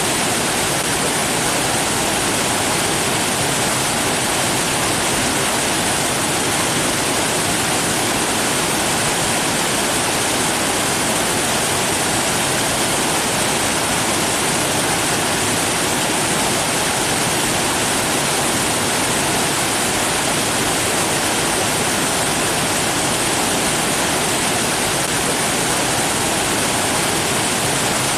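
Rushing water, a steady unbroken hiss with no distinct splashes or changes.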